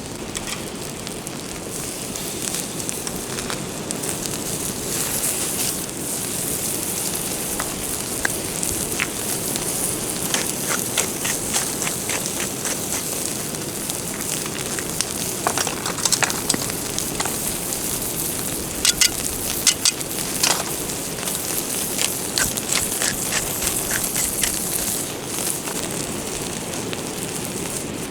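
Wood campfire crackling and hissing steadily, with scattered sharp pops that come thickest around the middle.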